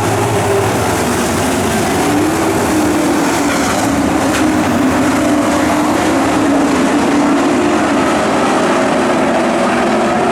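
Racing trucks' engines running hard on a dirt oval, a steady loud engine sound whose pitch wavers as they lap.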